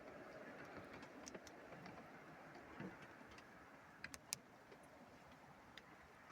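Near silence: a faint steady background hiss with a few scattered sharp ticks, the loudest pair a little after four seconds in. No thunder is heard.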